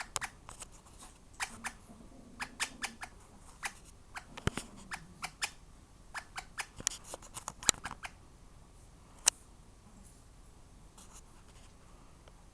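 Sharp, irregular clicks and light scratches, coming thickly for about eight seconds and then only now and then.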